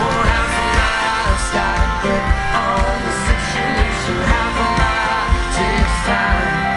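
Live band playing a pop-rock song: a guitar-led melody over a steady drum beat and bass.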